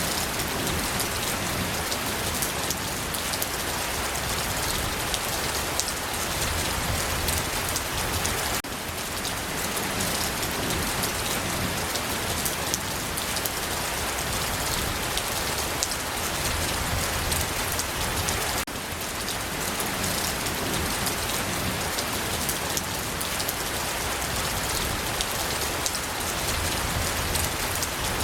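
Steady rain falling on a surface, a dense even patter of drops with fine individual drip ticks, played as a white-noise track; the sound dips briefly and restarts twice, where the recording loops.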